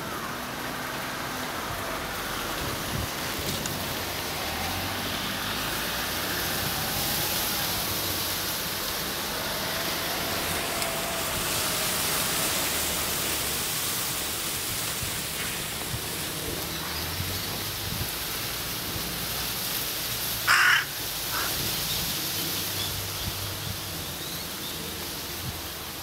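Steady outdoor background noise, broken about two-thirds of the way through by one short, loud, harsh bird call and a fainter second note just after.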